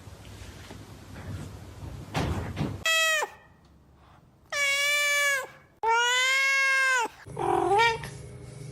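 Domestic cat meowing loudly in four drawn-out calls. The first is short and falls away, the next two are long and held, and the last dips in pitch.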